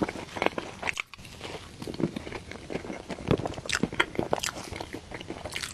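Close-miked eating of a dessert: biting and chewing, with many sharp irregular clicks and crackles.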